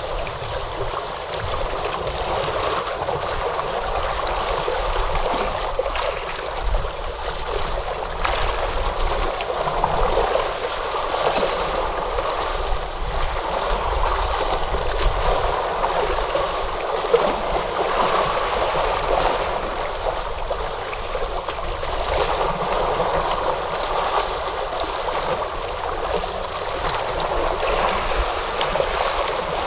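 Ocean surf washing steadily: a continuous rush of churning water that swells and eases only a little, with no distinct single wave breaks.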